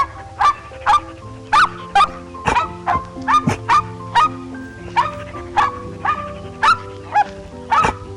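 A dog barking in short sharp barks, about two a second, over background music.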